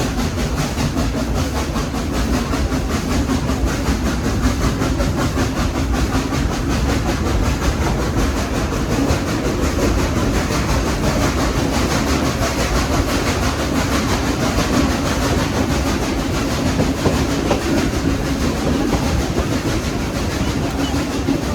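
Train running steadily along the track behind a steam locomotive: constant wheel-and-rail noise from the moving cars, with no breaks or sudden sounds.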